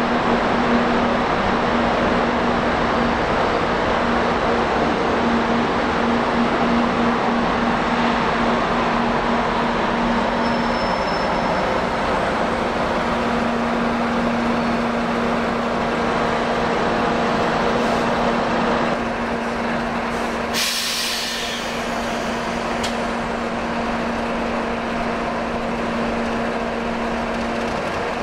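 A train standing at a station platform, running with a steady hum and rumble. About three quarters of the way through comes one short, sharp hiss of air from its air brakes.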